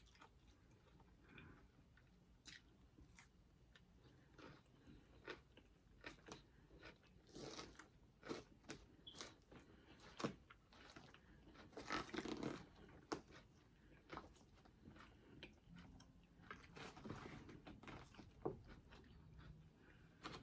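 Close-up mouth sounds of a person eating: crisp bites and crunchy chewing in irregular bursts, densest and loudest about twelve seconds in.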